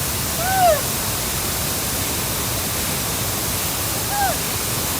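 Waterfall pouring with a loud, steady rush of water. Two brief rising-and-falling calls sound over it, about half a second in and again about four seconds in.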